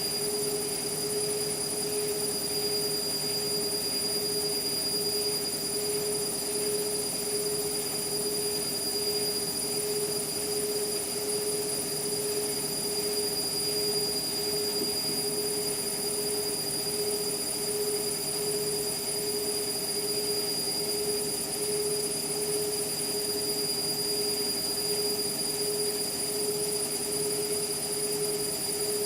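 Indesit MTWC71252WUK washing machine running without a break, its motor giving a steady whine that pulses slightly, with fainter high-pitched tones above it.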